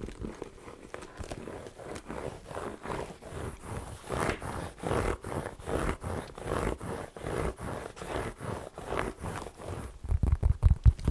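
Fast ASMR scratching on an object close to the microphone, quick rasping strokes about three to four a second, turning louder and deeper near the end.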